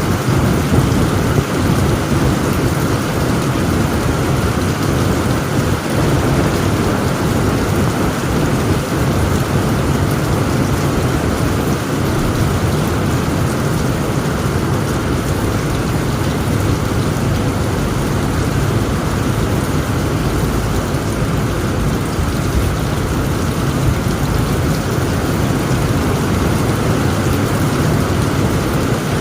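Heavy rain pouring steadily on a tent roof, a dense even downpour with a deep rumble underneath.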